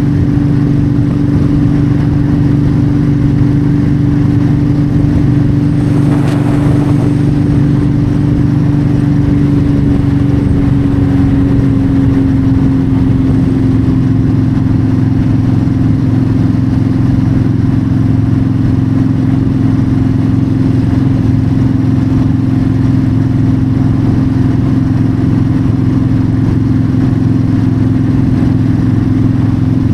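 Yamaha V-Star 1300's V-twin engine running steadily at highway cruising speed, with wind and road noise. The engine note eases slightly lower about ten seconds in, and a brief rush of noise passes about six seconds in.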